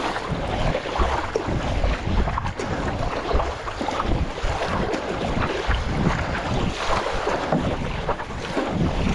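Wind buffeting the microphone over water splashing and sloshing around a stand-up paddleboard on choppy sea, with irregular splashes and no steady rhythm.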